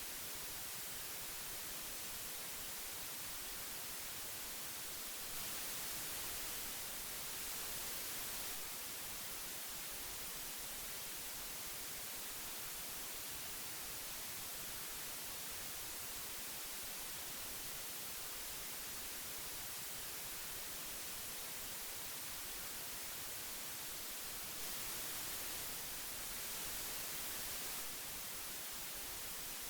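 Old analog tape hiss: a steady, even hiss weighted toward the high end, swelling slightly louder twice, about five seconds in and again near the end.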